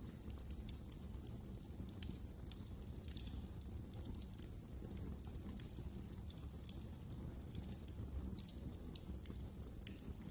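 Wood fire in a fireplace crackling: irregular small pops and snaps, a few louder than the rest, over a steady low rumble of the burning logs.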